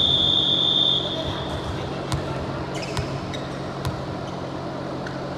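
A referee's whistle blown once, a single steady high note held for about a second. It is followed by a few light knocks, about one a second, typical of a volleyball being bounced on the court floor.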